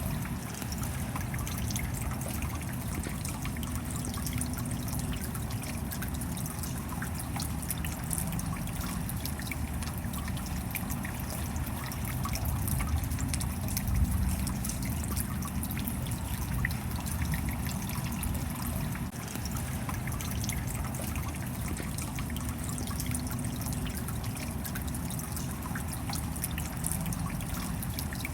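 Steady rain falling, with many small drop ticks over trickling, dripping water and a low rumble; briefly louder about halfway through.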